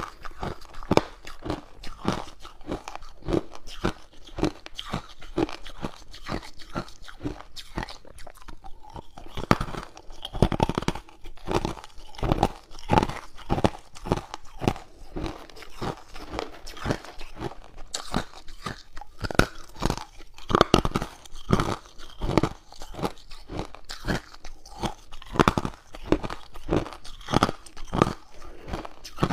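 Close-up crunching of hard ice cubes being bitten and chewed, a rapid run of crisp cracks a few times a second, with several louder bites.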